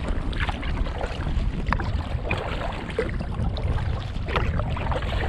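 Wind buffeting the microphone in a steady low rumble, with irregular splashes and slaps of water from paddling an inflatable kayak through small wind-blown chop.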